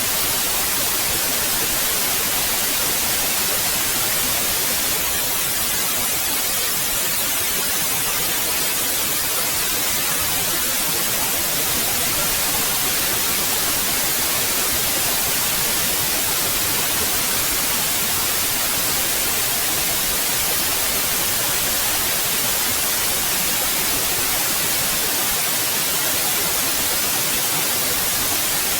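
Continuous white noise: a steady, even hiss that does not change, strongest in the high end.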